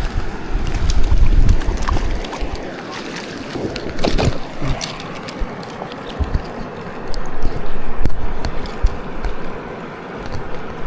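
Wind buffeting the microphone in gusts over a steady rush of stream water, with scattered clicks and knocks of handling.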